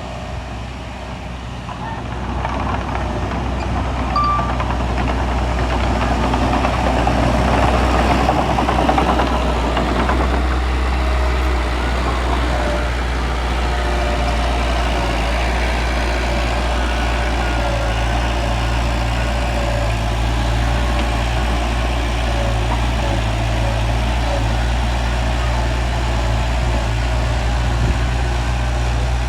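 Heavy earthmoving machine's diesel engine running steadily, growing louder over the first several seconds and then holding at an even level.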